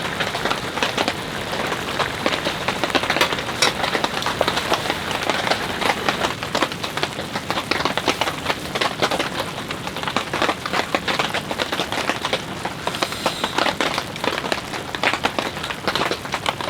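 Steady heavy rain, with many close drops ticking sharply on a surface over a continuous wash of falling rain.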